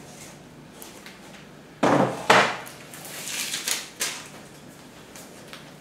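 Wooden beehive parts knocking together as they are handled and unpacked: two sharp wooden knocks about two seconds in, then lighter clattering.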